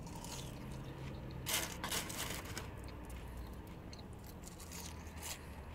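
A person chewing food with mouth noises and a few sharp crunches, the clearest about one and a half seconds in and another near the end, over a faint steady low hum.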